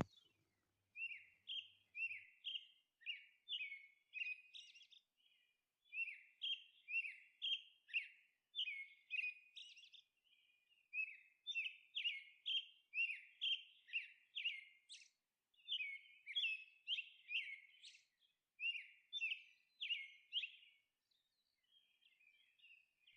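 Faint birds chirping: quick, repeated high chirps in runs with short pauses, stopping a couple of seconds before the end.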